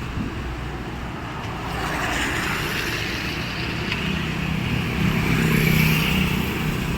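A motor vehicle's engine running, growing louder from about two seconds in, with a steady low hum strongest near the end.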